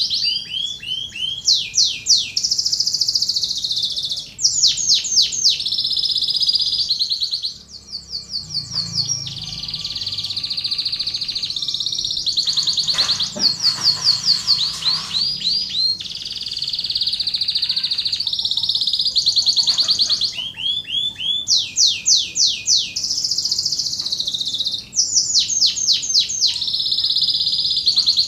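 Domestic canary singing a long continuous song: rapid trills of repeated high notes alternating with steady whistled rolls, breaking off briefly a few times before starting again.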